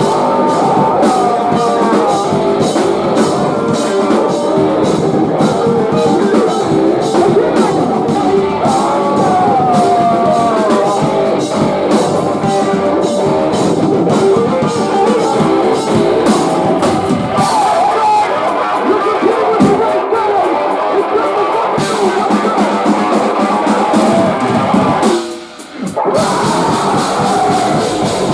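Live post-hardcore band playing loud distorted electric guitars and drum kit, with a brief break about three seconds before the end before the band crashes back in.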